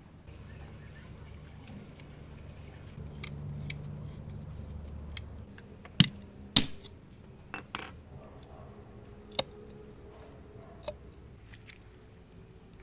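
Metal tools and parts being handled, giving about six sharp clinks and knocks, some with a brief ringing. They come after a low rumbling that lasts the first few seconds.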